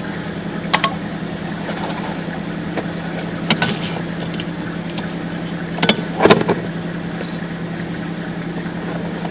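A steady low machine hum, like a motor running, with a few short clicks and knocks: one about a second in, one about three and a half seconds in, and a pair about six seconds in.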